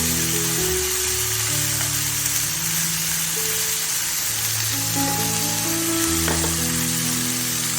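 Food sizzling in hot oil in a pan, a steady frying hiss, over background music of low held notes.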